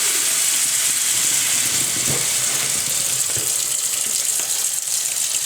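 Kitchen tap water running steadily into a hot frying pan in the sink, quenching freshly baked bicycle disc-brake pads.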